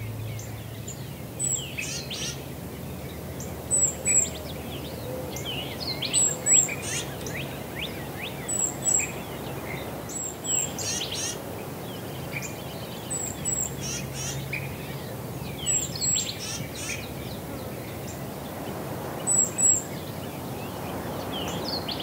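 Several songbirds singing and calling together over a steady background hiss, with a high double chirp that repeats every couple of seconds.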